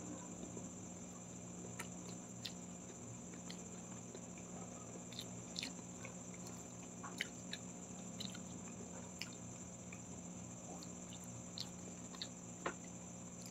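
Close-miked chewing of a mouthful of rice and fried milkfish (daing na bangus), with scattered small wet mouth clicks. A steady low hum and a high whine run underneath.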